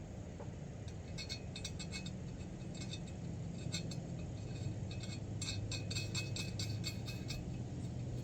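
Light metallic clicking and clinking in irregular runs as a nut is fitted onto a stud and run on to hold a newly installed Subaru up-pipe in place.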